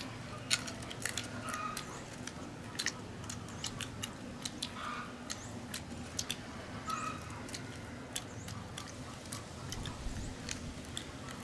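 A person gnawing and chewing meat off a barbecued bone: scattered small clicks and crackles of biting and chewing, over a low steady hum.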